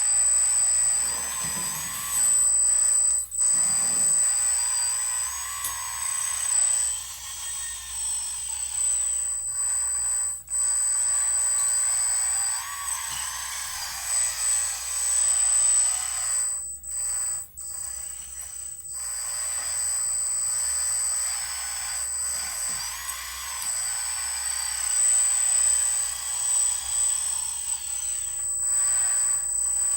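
Electric hydraulic pump on an RC dump truck running with a steady high whine. Its pitch wavers as the load and valves change, and it briefly drops out a few times.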